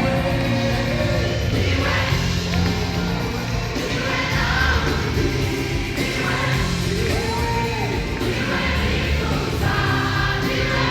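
A choir singing gospel worship music over a steady bass accompaniment.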